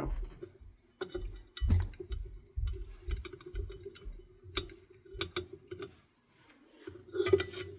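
Irregular light clicks, ticks and low knocks of metal ceiling fan parts and wiring being handled during reassembly, over a faint steady hum.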